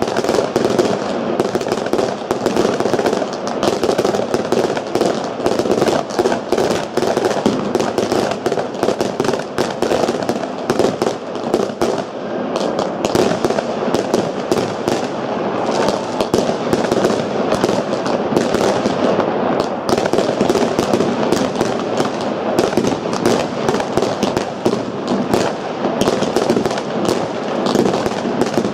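Dense, unbroken barrage of New Year's Eve fireworks: many overlapping bangs and reports with crackle between them, with no pause.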